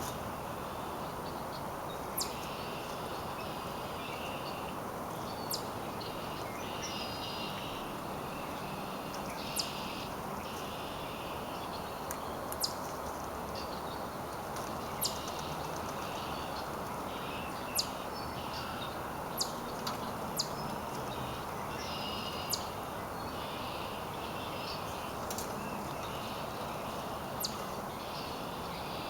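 Small birds chirping in short clusters over a steady outdoor background hiss, with sharp clicks every couple of seconds.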